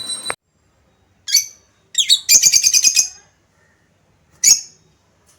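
Small birds chirping: a single shrill chirp, then a second and a half of rapid, repeated chirping about two seconds in, and another lone chirp near the end.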